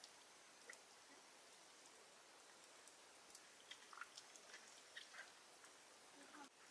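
Near silence: a faint steady hiss with scattered small clicks and ticks, more of them in the second half.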